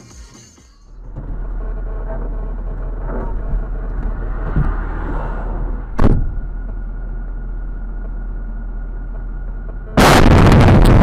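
Car driving as heard through a dashcam, with steady engine and road noise. A single sharp bang comes about six seconds in, and near the end a sudden, much louder rush of noise sets in.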